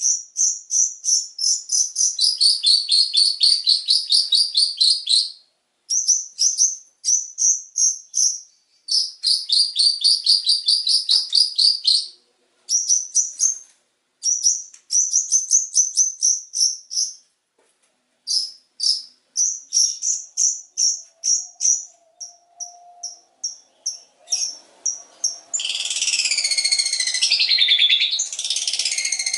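Long-tailed shrike (cendet) singing a rapid chattering song of repeated high chirps, about five a second, in bursts separated by short pauses. Near the end it changes to a louder, denser warble of sweeping notes.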